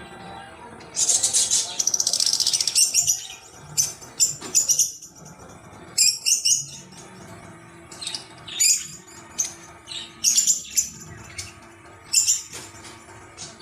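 Small bird chirping: a rapid high-pitched trill about a second in, then short bursts of high chirps every second or so.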